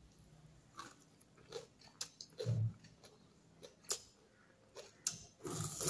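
Close-miked mouth sounds of a person eating with her fingers: chewing, with scattered wet clicks and smacks at irregular moments and a denser run of chewing near the end.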